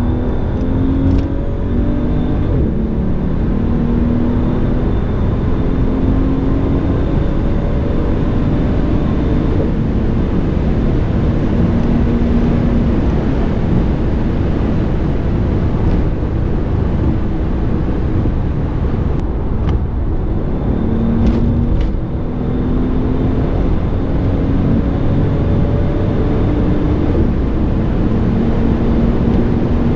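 Mercedes S65 AMG's twin-turbo V12 pulling hard at high speed, its pitch climbing slowly, under a heavy, steady rush of wind and road noise.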